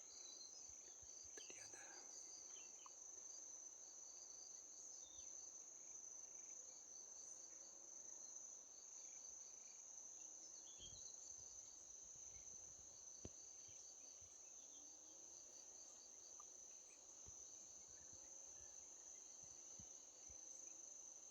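Faint insect chorus: one steady high-pitched drone throughout, with quick repeated chirps just below it.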